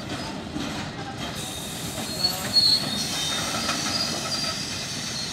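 Covered freight wagons and the brake van at the rear of a freight train rolling past on the rails, the wheels squealing with thin high tones from about a second and a half in. A couple of louder knocks come about two and a half seconds in.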